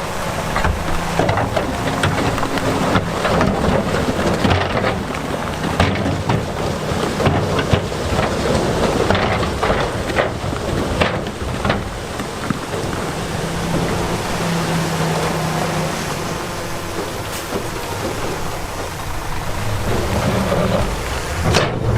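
Heavy diesel earthmoving machinery working under load, with a dense rumble and clatter of big stones tumbling and grinding, and many sharp knocks of rock striking rock.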